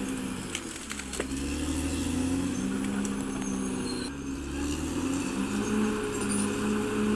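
Caterpillar D6R XL bulldozer's diesel engine running under working load, its pitch dipping about a second in and then picking up again, with a few sharp clicks around the dip.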